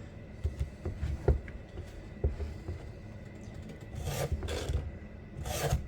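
A file rasping across a chainsaw chain's cutter in a file-guide sharpener that also takes down the raker: two strokes, about four seconds in and near the end. A few light knocks come before them.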